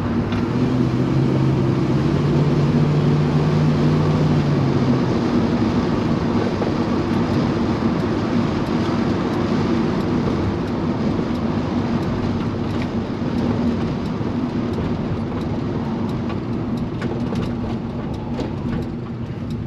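Chevy C-10 pickup driving on the road, heard from inside the cab: the engine runs under steady road noise. The engine note climbs slightly over the first few seconds and drops away about five seconds in as it eases off. The owner says the engine is running rich.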